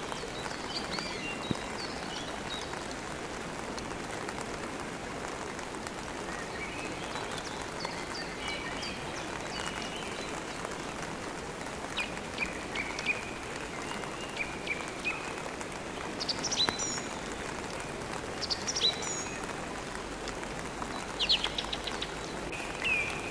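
Steady rain with small birds chirping and twittering over it; the chirps come sharper and louder in the second half.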